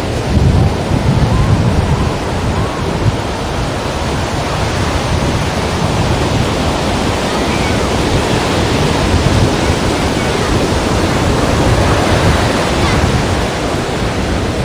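Sea waves breaking and washing against rocks: continuous surf noise with a deep rumble that swells and eases.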